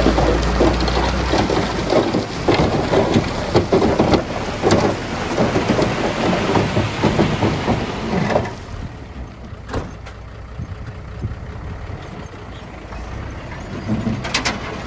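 Heavy earthmoving machinery at work: an engine running under a dense clatter of knocks and crunches. About halfway through it drops away sharply to a quieter running sound, and a few knocks come back near the end.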